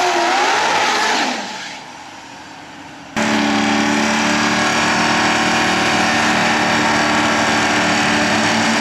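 Supercharged Corvette V8 revving down, its note falling in pitch and fading over the first two seconds. About three seconds in, a loud V8 cuts in abruptly, held at a steady raised engine speed with an unchanging note.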